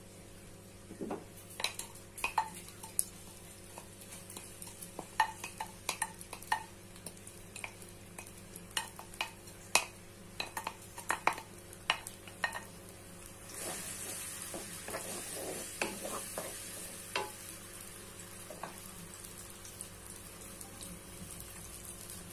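Ground chili spice paste (red chili, bird's eye chili, candlenut and kencur) frying in hot oil in a wok, with many sharp taps and scrapes of a wooden spatula against the pan through the first half. The sizzle swells to a louder hiss about two-thirds of the way through, then eases off.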